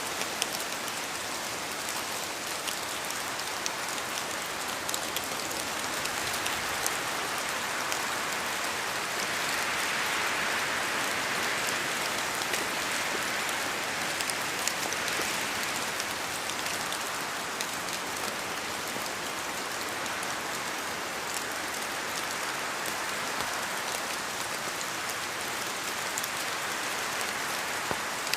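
Steady rain falling on a surface, a dense hiss with many individual drops ticking through it, swelling slightly a third of the way in.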